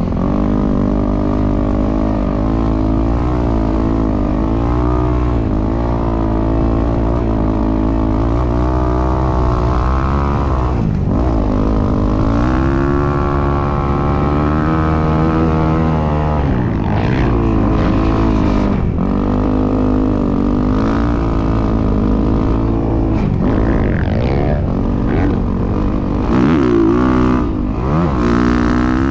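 Dirt bike engine running under way, its pitch rising and falling with the throttle, with several short drops where the throttle is shut and opened again.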